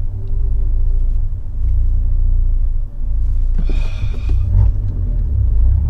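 Fiat 124 Spider's 1.4-litre MultiAir turbo four-cylinder idling roughly with an uneven, stuttering low rumble, the rough idle the owner ties to a cylinder 4 misfire that the scanner isn't logging; he suspects the idle is set too low for the bigger injectors. A short hiss comes in about three and a half seconds in.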